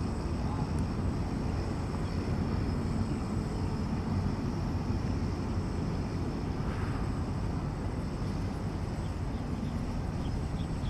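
Strong wind buffeting the microphone: a steady low rumble, with a faint steady high whine above it.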